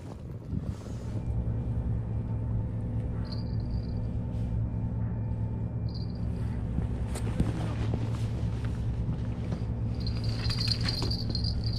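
A motor or engine running steadily at a constant pitch, a low hum that sets in about a second in.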